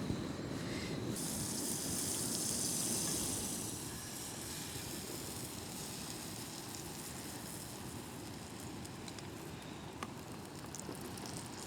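Pancake batter sizzling in a hot frying pan, loudest and brightest in the first few seconds, then settling to a steady hiss.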